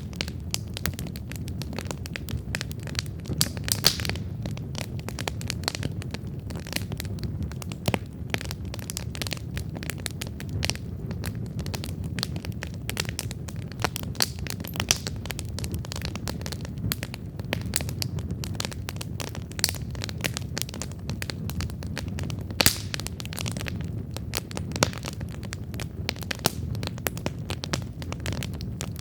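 Wood campfire burning, with dense sharp crackles and pops over a steady low rumble, a few pops standing out louder than the rest.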